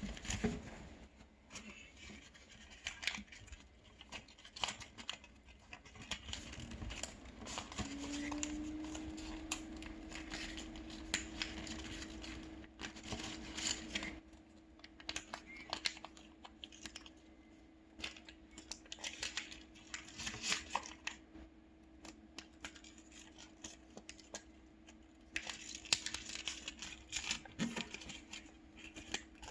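Paper being folded and creased by hand: scattered rustles, scrapes and crinkles. A steady low hum comes in about eight seconds in and carries on under it.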